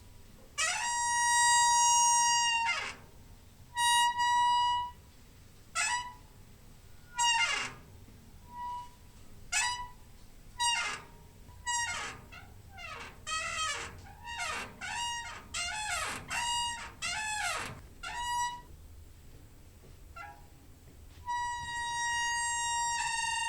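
Door hinge squeaking in a series of high creaks. Some are long and held, others short and gliding in pitch, with a quick run of squeaks in the middle and a long steady squeal starting near the end.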